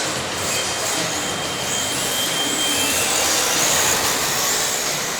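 Radio-controlled drift cars sliding on a P-tile track: a steady hiss of tyres on the tile, with the high whine of electric motors rising and falling.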